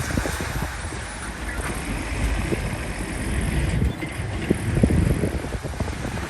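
Heavy machinery engine running, with wind buffeting the microphone.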